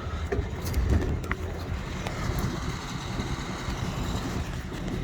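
Farm vehicle engine running steadily, with a few light clicks over it.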